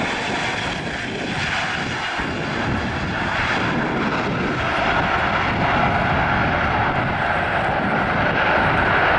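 Jet engine noise of a landing Boeing 777-300ER, whose engines are GE90-115B turbofans: a steady rushing roar that grows louder from about halfway through.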